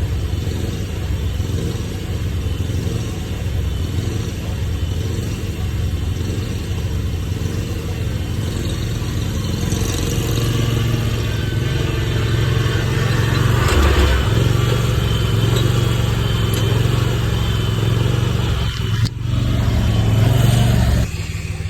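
A vehicle engine running steadily, then working harder and louder from about ten seconds in. It dips briefly near the end and comes back.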